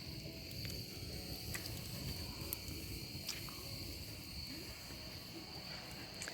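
Crickets chirping in a steady high trill, over a low rumble, with a few sharp clicks scattered through.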